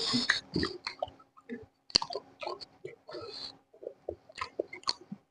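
Close-up eating sounds: irregular wet chewing, smacking and small crunching clicks as someone bites and chews food, over a faint steady hum.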